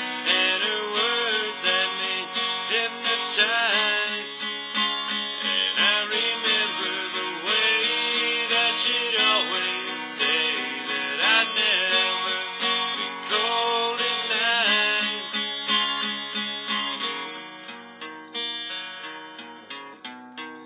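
Music on acoustic guitar, strummed, carrying a melody with gliding notes; it grows quieter over the last few seconds.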